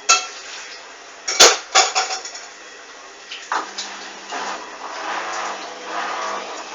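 Hoover washing machine with an unbalanced load at the final spin: the drum knocks and bangs loudly a few times in the first two seconds, then the motor whirs steadily as the drum turns again. The load is too unbalanced to spin up, and the spin fails.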